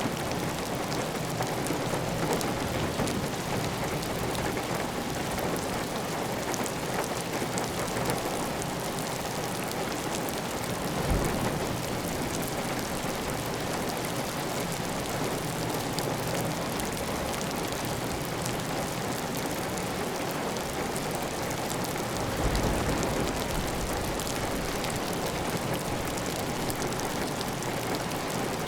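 Steady heavy rain pattering on a clay tile roof, with water running off the roof edge. A brief low thump comes about eleven seconds in, and a longer low rumble about twenty-two seconds in.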